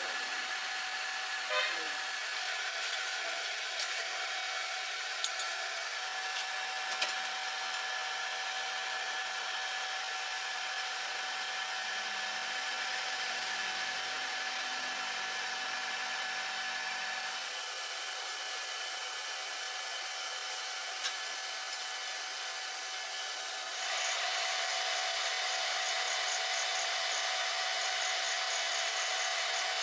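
Arc welding: the steady hiss of a welding arc with a few sharp clicks, stepping up suddenly in loudness near the end.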